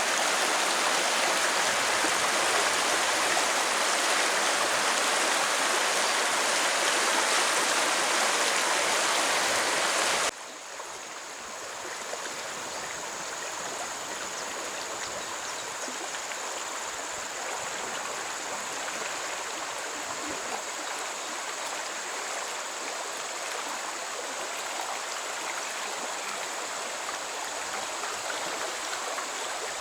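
Stream water rushing steadily. About ten seconds in it cuts abruptly to a quieter, softer flow with a thin, steady high-pitched tone over it.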